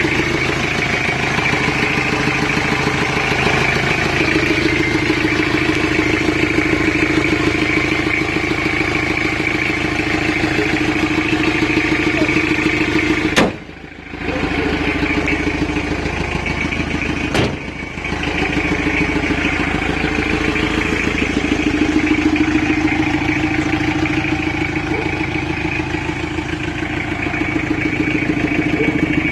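Isuzu Trooper's 2.2-litre four-cylinder turbo diesel engine running steadily. The sound is broken twice by a sharp click and a brief drop, about halfway through and again a few seconds later.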